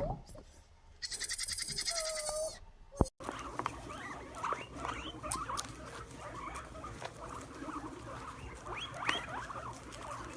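Many small animals squeaking and chirping in short, overlapping calls that rise in pitch. Near the start there is a rapid high-pitched pulsing trill lasting about a second and a half.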